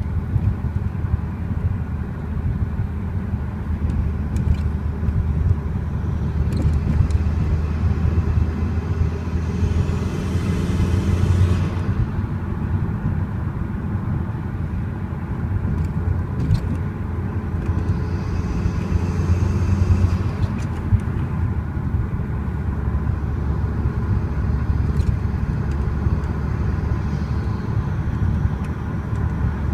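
Audi TT 225's turbocharged 1.8-litre four-cylinder on its stock exhaust, cruising under way with a steady low drone from inside the cabin. The engine note rises and grows louder twice, about ten and nineteen seconds in, as the car accelerates.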